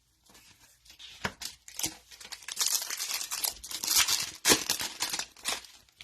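A 2022 Donruss football trading-card pack being torn open, its wrapper ripping and crinkling. There are a few short rustles first, then a dense burst of tearing and crinkling through the middle and latter half.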